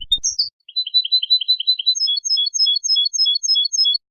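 European goldfinch song: a fast run of repeated chirping notes, then a slower series of repeated three-note figures, about five a second, that stops abruptly near the end.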